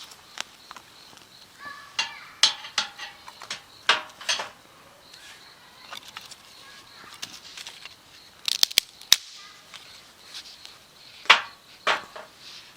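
Irregular sharp clicks and knocks, a cluster of them a few seconds in, a quick flurry near the middle, and the loudest one near the end.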